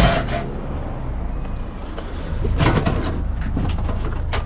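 Knocks and clanks of a scrapped washing machine being lifted and handled: one at the start, a louder cluster a little over halfway, and a few lighter knocks near the end, over a steady low engine hum.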